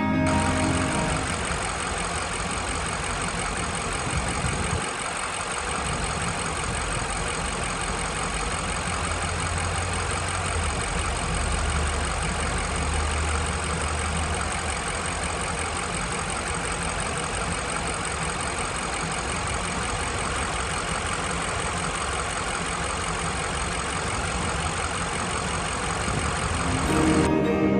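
The 2020 BMW 750i xDrive's 4.4-litre twin-turbo V8 idling steadily.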